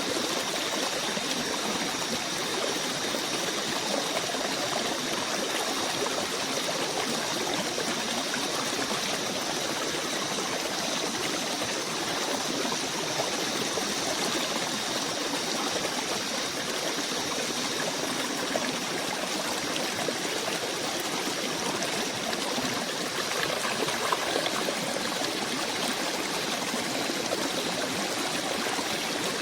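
Steady rushing and trickling of a forest stream, with a faint, steady high-pitched tone over it.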